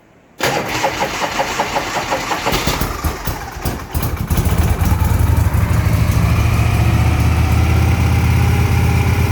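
1982 Harley-Davidson FLHP's Shovelhead V-twin cold-started with the choke on: the starter cranks it for about three and a half seconds, and about four seconds in the engine catches and settles into steady running.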